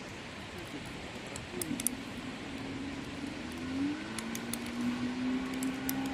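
A motor humming at a steady pitch over a background hiss; its pitch rises about two seconds in and again near four seconds, then holds and grows louder. Faint scattered clicks sound throughout.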